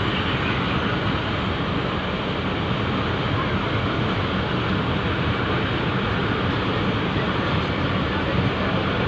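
Pakistan Railways passenger coaches rolling past on the track, a steady even noise of wheels running on the rails.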